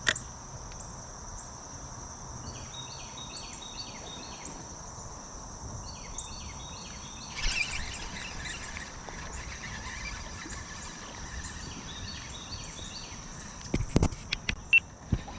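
Outdoor creek-side ambience: a steady high insect drone, with a bird repeating a short call in three bouts. There is a brief rush of noise about seven seconds in, and a few sharp clicks and knocks near the end.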